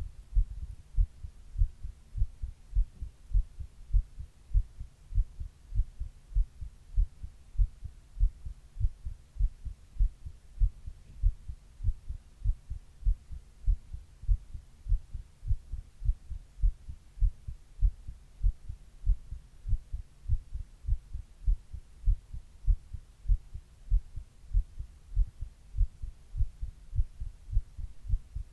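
A person's heartbeat heard up close: steady, low thumps, a little more than one beat a second, with an even rhythm throughout.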